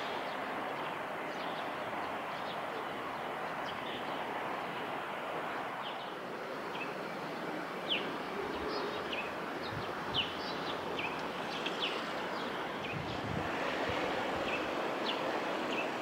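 Small birds chirping: short high calls and quick falling notes, several a second at times, the loudest about eight and ten seconds in, over a steady background hiss of outdoor noise.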